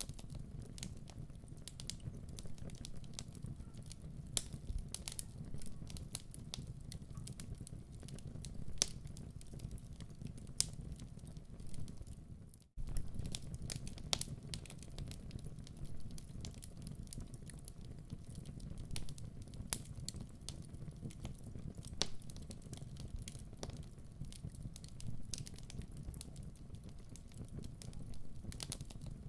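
Wood fire in a fireplace burning with a steady low rumble and irregular sharp crackles and pops. The sound drops out for an instant about halfway through, then carries on as before.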